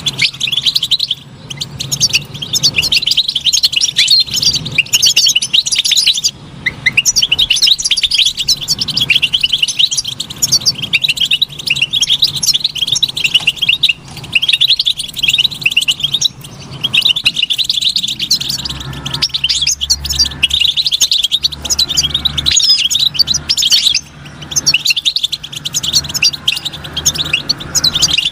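European goldfinch singing: long runs of rapid, high twittering chirps, broken by short pauses, over a faint low hum.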